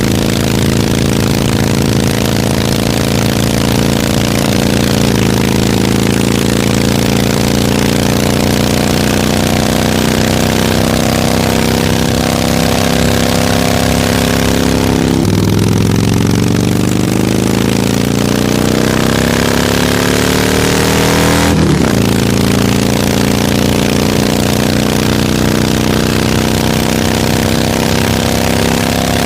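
Harley-Davidson V-twin motorcycle engine running on the move. Its pitch holds fairly steady, then climbs as it accelerates through a gear, drops suddenly about three quarters in as it shifts up, and climbs again.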